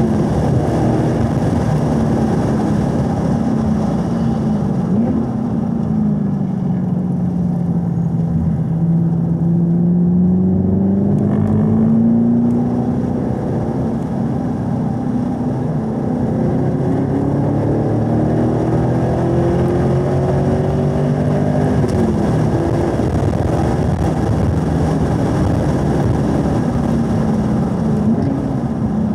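2018 Camaro SS 1LE's V8 engine at full track pace: the engine note falls as the car brakes down from high revs, then rises steadily under acceleration through a long corner. About two-thirds of the way through the pitch drops sharply at an upshift from third to fourth, then climbs again, with a constant rush of road noise underneath.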